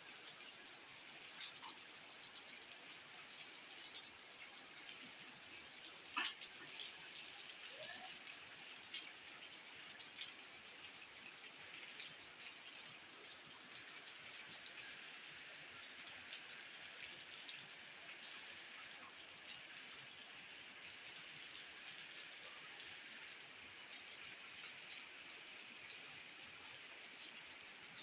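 Steady rain falling, a faint even hiss dotted with the ticks of individual drops.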